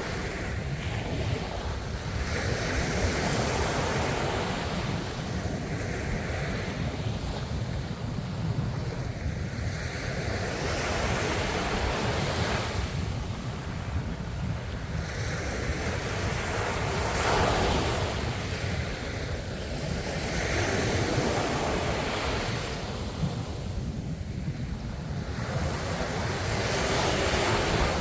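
Ocean waves washing onto the shore, the surf swelling and falling away every four to five seconds, over a steady low rumble.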